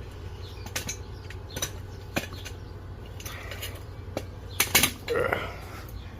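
Irregular sharp clicks and taps, with a louder double knock about four and a half seconds in, over a low steady hum.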